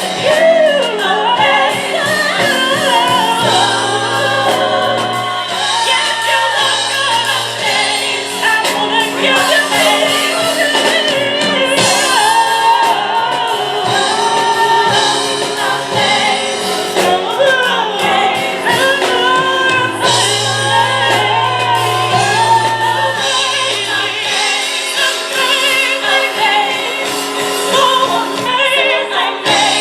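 Live gospel song: a small women's vocal group singing in harmony over piano and drums.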